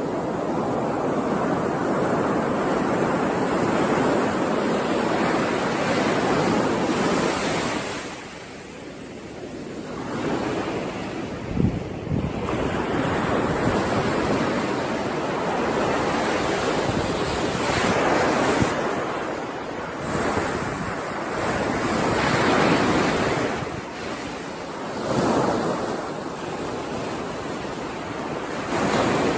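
Ocean waves breaking and washing on a shore, swelling and ebbing every few seconds, with wind on the microphone.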